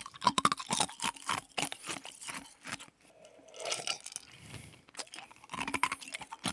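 Close-miked chewing with quick crisp crunches, a mouthful of food being eaten. There is a quieter spell in the middle while he drinks from a glass of iced water, and the chewing picks up again near the end.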